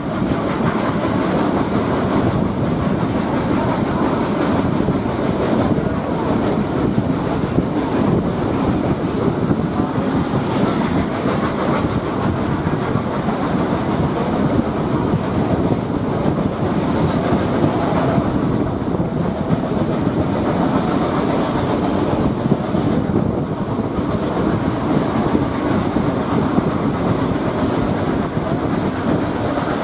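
A steam-hauled passenger train under way, heard from an open carriage window: a steady, loud rumble of the carriage wheels clattering over the rails, with the exhaust of the Garratt locomotive 6029 working ahead.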